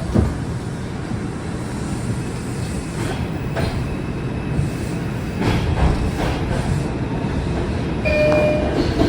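R142 subway car running through the tunnel: steady rumble with scattered clacks from the wheels over the rail joints. A short high wheel squeal comes about eight seconds in.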